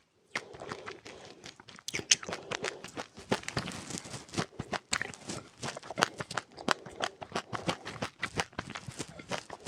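Close-up chewing of crunchy seeds eaten with passionfruit: quick, irregular crunches and clicks, several a second, growing louder about two seconds in.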